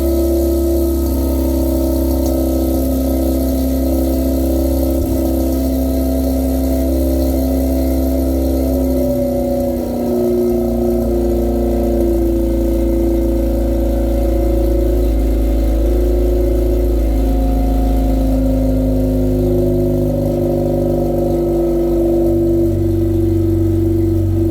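Mazda RX-8's Renesis two-rotor rotary engine idling steadily through headers, a straight-pipe section and a newly fitted DNA Motoring axle-back muffler.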